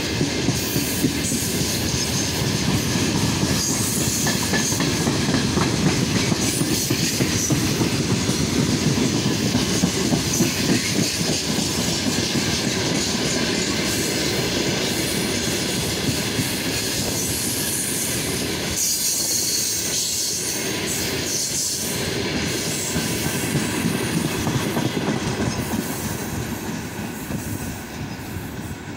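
Freight train of open gondola wagons rolling past close by: a steady rumble and clatter of steel wheels on the rails, with high wheel squeals at times. It grows quieter near the end as the last wagons draw away.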